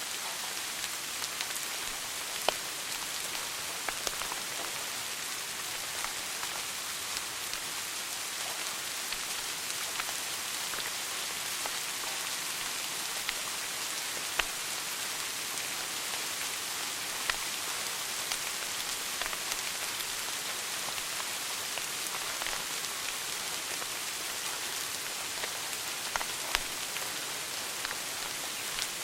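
Wood fire burning in a fireplace: a steady hiss of crackling with scattered sharp pops, a few louder than the rest.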